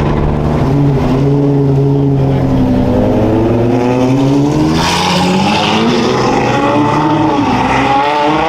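Several race car engines running at once on track, their pitch rising and falling through revs and gear changes, with one car coming louder and closer about five seconds in.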